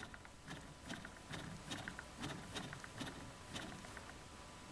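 Crankshaft of a Stels Arrow scooter engine, in its opened crankcase, being shaken by hand along its axis, giving light irregular metallic clicks about twice a second. The clicks are play that shows only when the shaft is moved lengthwise, which the owner is checking as the cause of the engine's knock.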